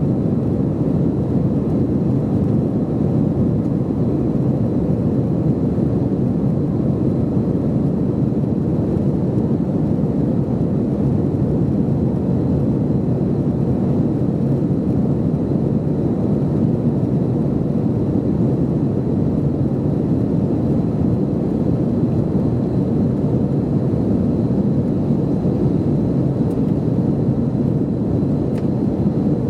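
Steady cabin noise of an Airbus A321-211 airliner, heard from inside the cabin: a deep, even rumble of engines and airflow with a faint high whine above it.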